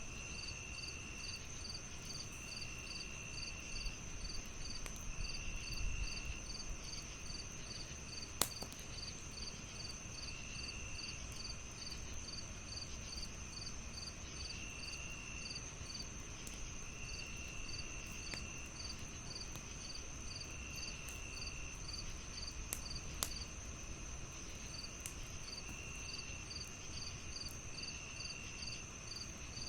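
Crickets chirping in an even pulse, about two to three chirps a second, over a steady high insect trill, with short buzzing trills every few seconds. A wood fire crackles underneath, with a few sharp pops.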